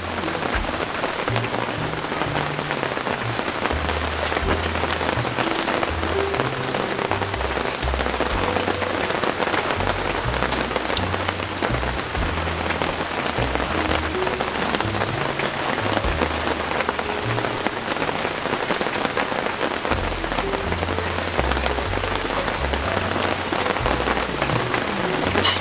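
Steady, heavy rain falling around the campsite, an even hiss of drops with a few sharper, louder drips now and then.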